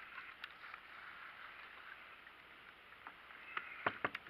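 Steady hiss of wind and water around a fishing kayak on the ocean, with a few sharp clicks or knocks against the boat near the end.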